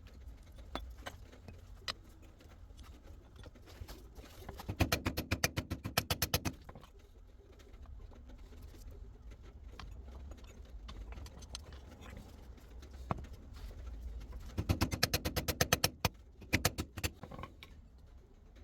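Two bursts of rapid, even clicking at about ten clicks a second, each lasting about two seconds, like a ratchet wrench being worked. Single metallic clicks and knocks of hand tools on gearbox parts fall in between.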